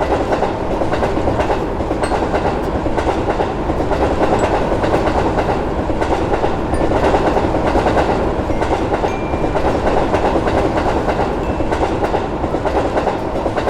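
Train passing through a crossing: a steady, loud rumble with rapid clatter of the wheels over the rails.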